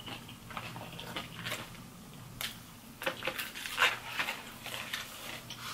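Close-up eating sounds of a person chewing fried chicken tenders, with irregular wet mouth clicks and small crunches.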